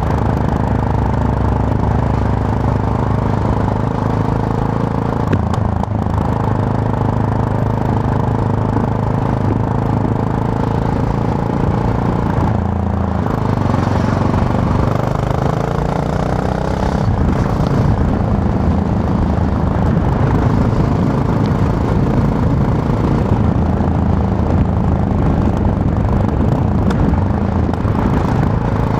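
Yamaha MT-03's parallel-twin engine running on the move. The engine note dips briefly about six seconds in and climbs between about 14 and 17 seconds as the bike picks up revs.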